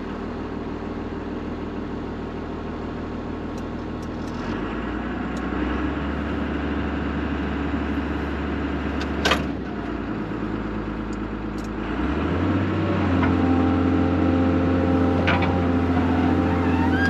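Excavator's diesel engine running, with the revs stepping up twice, about four seconds in and about twelve seconds in, as the machine is worked. There is a sharp metallic clank about nine seconds in, and near the end a high squeal starts up from a dry pivot joint that has no grease fitting.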